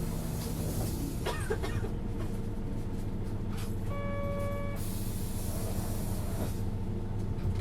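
Isuzu Erga city bus's four-cylinder diesel idling steadily at a stop, heard from inside the cabin. A short electronic beep from the fare equipment sounds about four seconds in, followed by a brief hiss.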